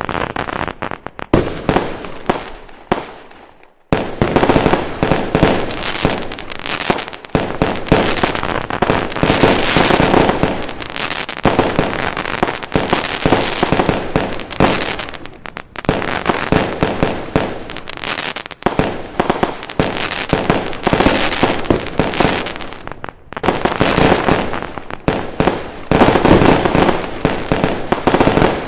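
Fireworks going off in rapid, dense volleys of bangs and crackling. They die away about three seconds in, pause briefly, then start again thick and fast, with a short dip near the end.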